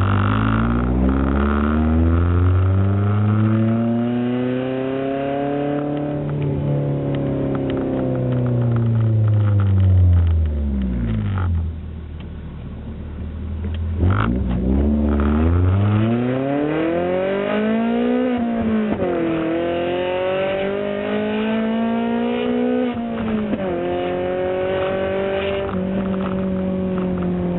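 Toyota Altezza with a straight-piped exhaust, heard from inside the cabin: the exhaust and intake note climbs under full throttle and falls away again. After a short quieter spell it climbs again, broken by three sudden drops in pitch at gear changes.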